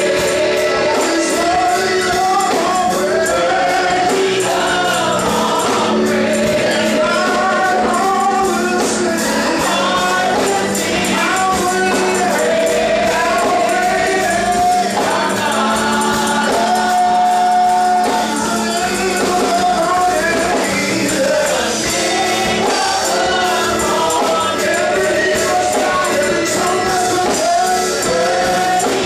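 Gospel choir singing with a tambourine beating along and a held organ or keyboard tone underneath.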